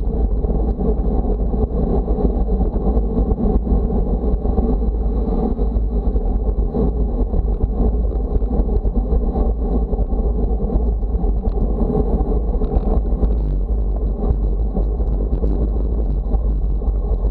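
Heavy wind buffeting the microphone: a steady rushing noise with a strong low rumble.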